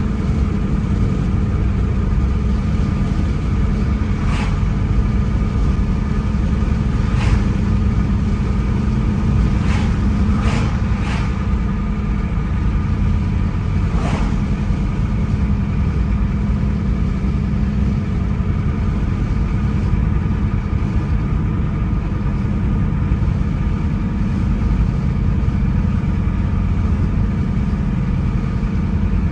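Car driving along a road: a steady low rumble of engine and tyre noise, with a handful of short ticks or knocks in the first half.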